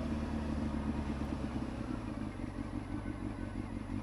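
Honda CBR600 F2's inline-four engine running at a steady speed, without revving.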